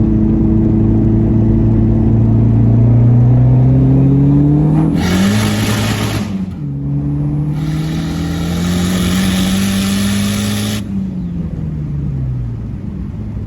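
Turbocharged four-cylinder of a 400 hp big-turbo SRT-4 accelerating hard: engine pitch climbs through one gear with a loud rushing hiss under boost, a shift about six seconds in, then a second pull. The hiss cuts off and the pitch falls away near the end as the driver lifts off.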